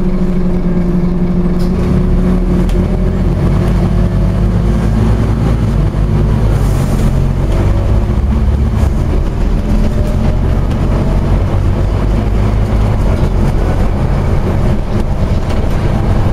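Scania OmniCity double-decker bus engine running as the bus drives, its note shifting in pitch: one tone fades in the first few seconds and a lower one climbs over the next several.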